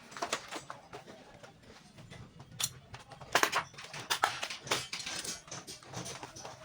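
Irregular clicks, taps and short scrapes of hand work, some louder than others, with no steady rhythm.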